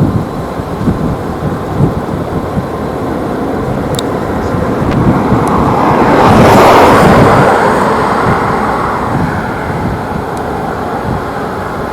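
JetBlue Airbus A320 jet engines: a loud rushing roar that builds, peaks about halfway through, and then slowly fades as the airliner passes close by.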